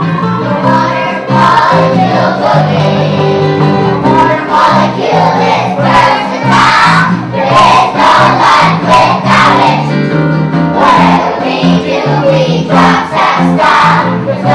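A group of young children singing a song together, accompanied by a strummed acoustic guitar.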